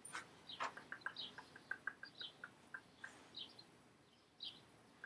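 Faint bird chirps, with a quick run of light ticks for a couple of seconds and two light knocks in the first second.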